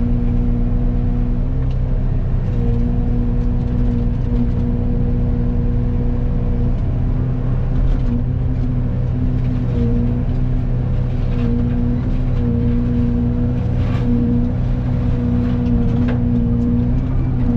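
Excavator running a Fecon forestry mulching head: a steady engine-and-hydraulic drone with a strong hum that dips briefly several times, and a few faint clicks.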